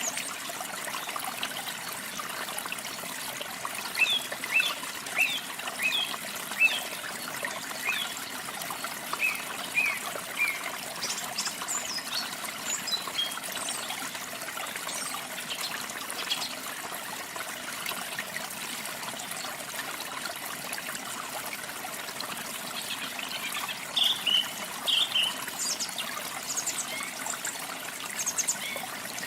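Steady trickling and splashing of a small waterfall, with songbirds singing short chirped phrases over it in a few bursts, the loudest near the start and again near the end.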